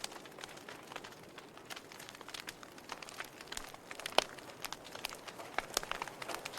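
Wood fire crackling in a fireplace: irregular sharp pops and snaps over a soft hiss, with one louder pop a little after four seconds in.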